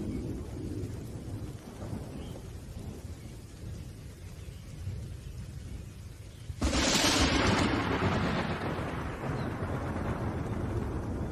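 Thunderstorm: low rolling thunder rumbles under rain, then about two-thirds of the way in a sudden sharp thunderclap breaks out and fades slowly.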